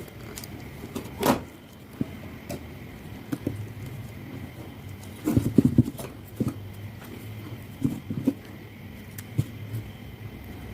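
Scattered clicks, taps and knocks, with a denser cluster about halfway through, over a low steady hum and a faint steady high tone.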